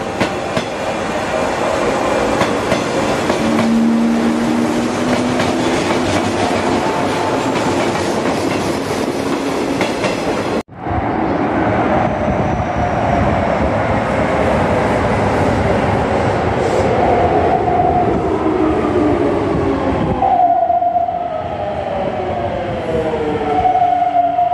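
A train running along a station platform, its wheels clacking over the rail joints. After a sudden cut, a Hokuso Railway electric commuter train pulls into an underground station, its motor whine falling in pitch as it brakes to a stop.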